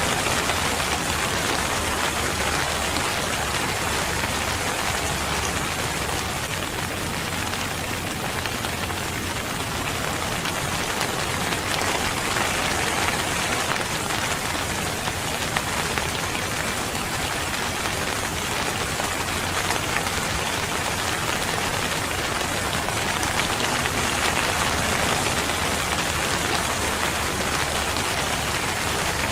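Steady rain falling on a surface, an even hiss of many drops.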